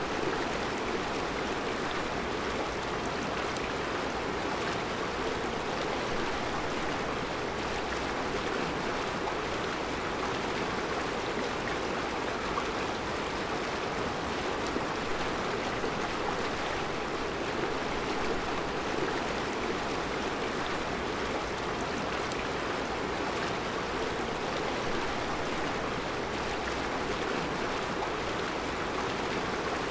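Mountain river flowing over a rocky bed of round stones: a steady, even rush of water.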